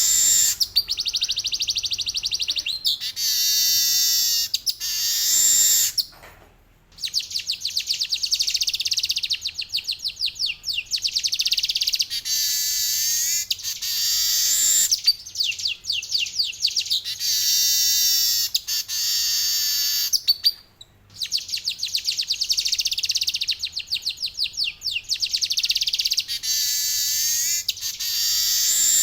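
Male weaver bird (manyar) singing: long, very fast high-pitched trills, broken by shorter phrases of stacked notes that sweep downward, with two brief pauses.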